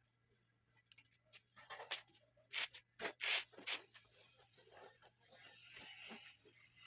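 Stand fan parts being handled: a few short, scraping rubs of hard parts against each other, then a softer rustling, over a faint steady low hum.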